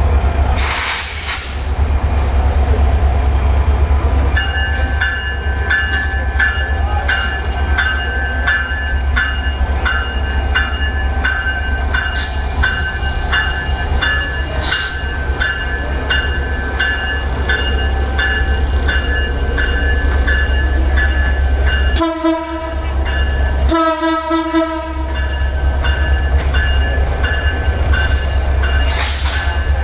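Diesel-hauled Bangladesh Railway express train passing at speed: a deep steady rumble with the regular clatter of wheels over rail joints and a steady high whine. Near the end the locomotive's horn sounds twice, the second blast longer.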